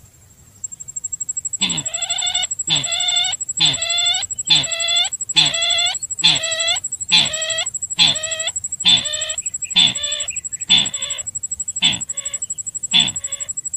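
Sintar bird lure call: a series of clucking calls, about one a second, each note falling in pitch, starting about two seconds in and breaking into shorter, choppier notes near the end. A steady high-pitched whine runs under it.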